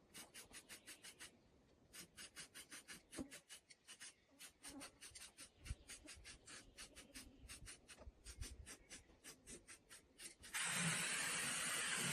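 Quick back-and-forth scraping or rubbing strokes by hand, about six a second, in runs with short pauses. Near the end a steady hiss lasts about a second and a half and is the loudest sound.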